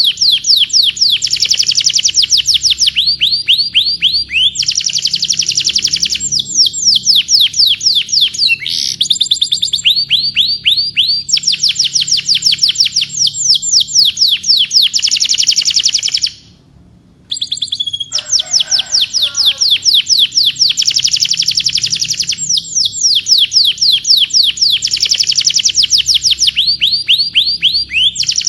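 Domestic canary singing: long, fast trills of repeated high sweeping notes, each trill held for a second or two before switching to another, with a brief break about halfway through.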